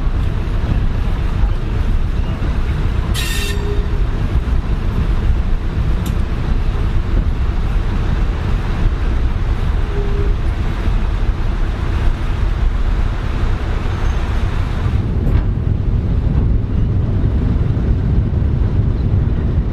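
Preserved heritage train running along the line, heard from inside the carriage: a steady, loud low rumble of the running gear on the track, with one brief sharp clank about three seconds in.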